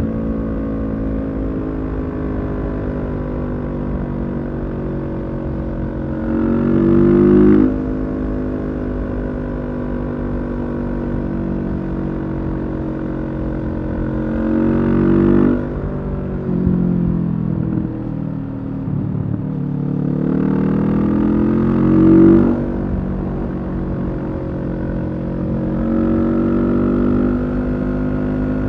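Kawasaki Z650's parallel-twin engine through a Leo Vince EVO carbon aftermarket exhaust, running under way. Three times the engine note climbs and then breaks off sharply at a gear change, about a quarter, half and three quarters of the way through, with steadier running between.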